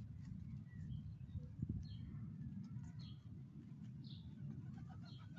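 Garden birds chirping, one repeating a short high note about once a second, over a steady low background rumble. Near the end a faint long tone slowly rises in pitch.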